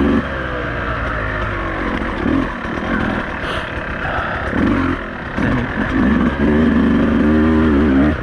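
Beta 200RR two-stroke enduro motorcycle engine under way on a rough trail, its revs rising and falling as the throttle is worked. The revs dip about five seconds in and climb again near the end.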